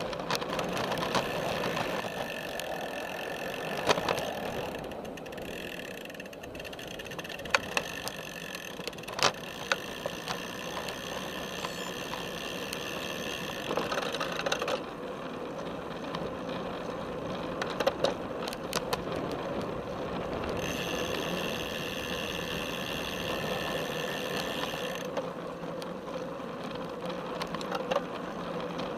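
Felt F75 road bike heard from a camera strapped to its top tube: the rear freehub ratchet buzzing in stretches while coasting, over steady tyre and frame noise, with scattered sharp clicks and knocks from bumps in the path.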